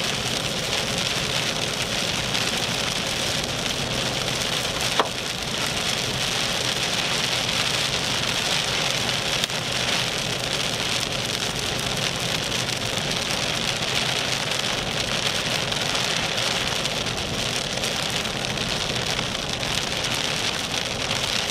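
Steady hiss inside a moving vehicle driving on a wet road: tyre noise and spray mixed with rain on the body. A single sharp click about five seconds in.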